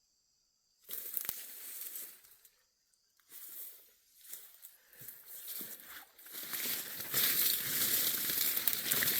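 Close rustling and crinkling against the microphone. It comes in uneven bursts at first, then runs continuously from about six seconds in.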